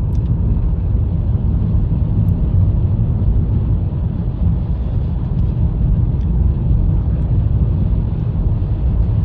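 Steady low rumble of tyre and engine noise heard inside the cabin of a 2020 Honda Fit with its 1.3-litre four-cylinder petrol engine, driving along a snowy road.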